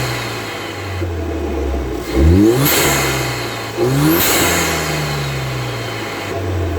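Ford Mondeo Mk4's 1.6 EcoBoost turbocharged four-cylinder, fitted with a Ramair sport air filter, revved twice from idle. After each blip the turbo whooshes and the blow-off valve releases with a high falling hiss, then the engine drops back to idle.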